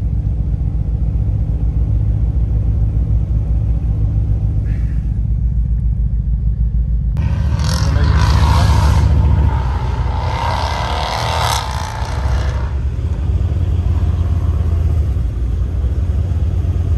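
Car engine running at a low, steady rumble, heard from inside the cabin while queued. About seven seconds in the sound cuts to outdoors, where sports car engines rev and accelerate along the road for several seconds, then settle back to a steady low engine rumble.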